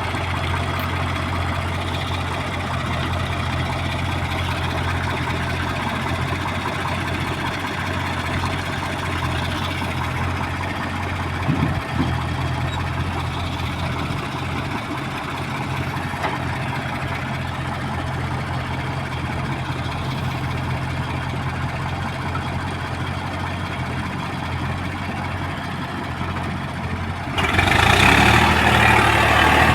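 Diesel engine of heavy earthmoving machinery running steadily at low revs, with a single brief knock about twelve seconds in. Near the end it abruptly gives way to a louder, harsher engine sound.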